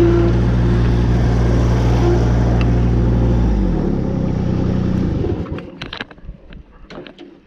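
Kubota three-cylinder diesel engine of a Woods 6215 mower running steadily, then dropping in pitch about three and a half seconds in and dying away as it is shut off at the end of a test run. A few light clicks follow.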